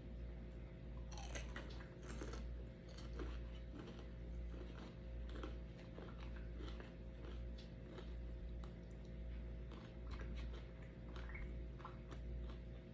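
Close-up chewing and eating: many small, irregular mouth clicks and crunches over a steady low hum.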